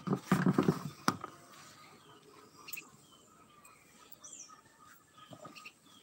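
A loud, rough noise lasting about a second at the start, ending in a sharp click, then faint short high chirps from small birds, some falling in pitch.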